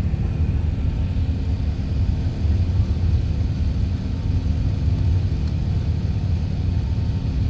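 Steady low rumble of an Emirates Airbus A380-861's four Engine Alliance GP7200 turbofans at takeoff power as the airliner climbs away. No rise or fall in level.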